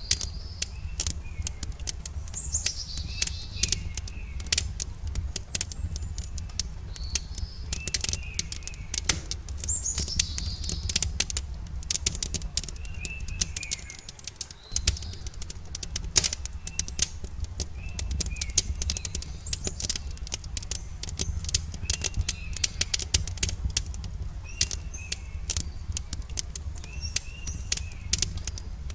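Campfire crackling with frequent sharp pops over a steady low rumble, while songbirds call: a few descending trills and many short repeated chirps.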